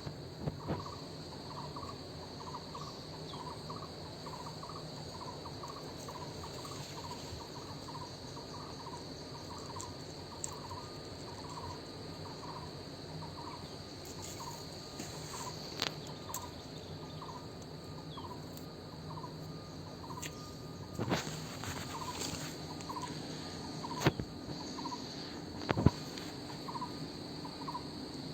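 A bird's short call note repeated evenly, about three every two seconds, over a steady high insect drone. A few sharp clicks sound in the second half.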